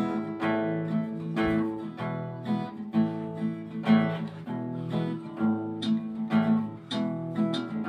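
Acoustic guitar strumming chords in a steady rhythm, about two strokes a second: the instrumental opening of a song before the vocals come in.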